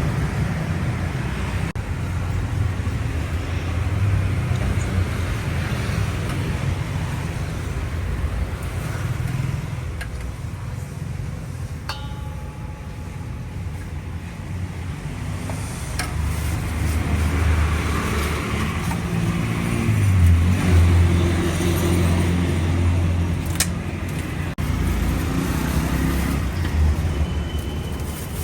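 Motorcycle engine running while riding in city traffic, with road traffic noise around it; the engine grows louder for several seconds about two-thirds of the way through.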